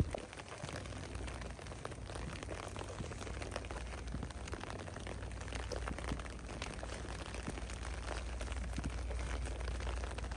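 Steady rain: an even hiss dotted with many small ticks of drops, over a low rumble.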